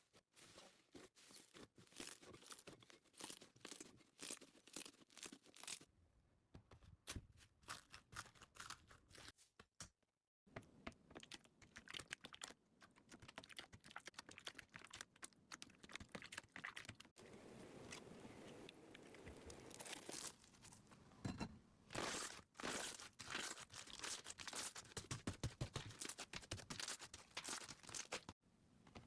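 Slime being squeezed and poked by hand: a dense run of small crackling, clicking pops, busier in the second half. The crackling breaks off briefly in silence about a third of the way in and again just before the end.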